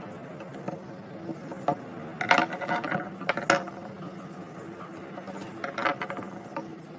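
Small metal parts and hand tools clicking and clattering as the drywall screw gun is worked on by hand, in two bursts about two seconds in and near six seconds, over a steady faint hum.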